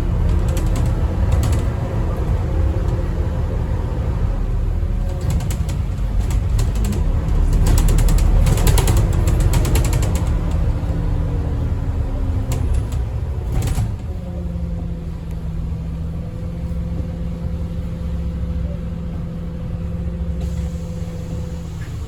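Scania N230UD double-decker bus's diesel engine running under way, heard from inside the bus, with body creaks and rattles. It pulls hardest about a third of the way in, then settles into a steadier note for the rest.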